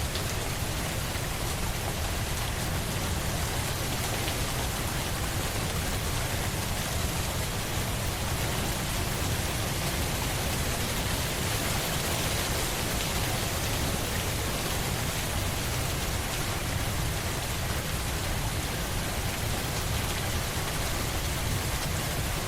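Steady rain falling and pattering on a surface, a constant hiss without a break.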